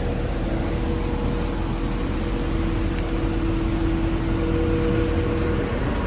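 Steady low rumble with a constant two-note mechanical hum, which sets in about half a second in and drops away shortly before the end.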